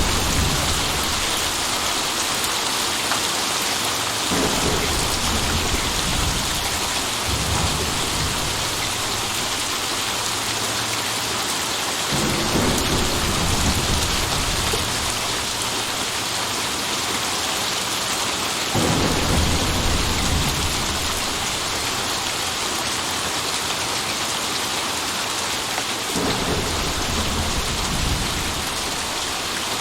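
Steady heavy rain with rolls of thunder rumbling low about every six or seven seconds, four or five times.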